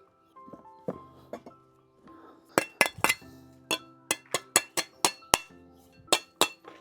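Bricks clinking against one another as they are handled and stacked: a string of sharp hard clinks, coming thick and fast in the second half, over background music.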